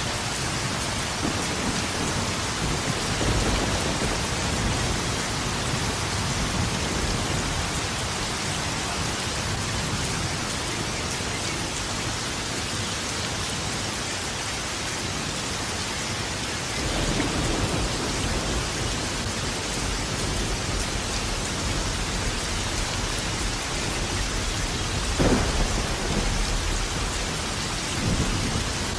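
Steady heavy rain with rolling thunder: low rumbles swell a few seconds in and again past the middle, and a sharper, louder thunderclap comes about 25 seconds in.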